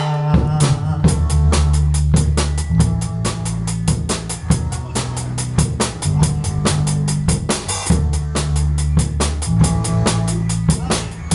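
Worship band playing an instrumental passage without singing: a drum kit keeping a quick, steady beat on kick, snare and cymbals over held bass notes that change every couple of seconds.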